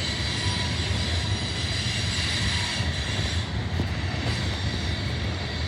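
Loaded coal train rolling past: a steady rumble of heavy freight cars on the rails, with faint thin squeals from the wheels.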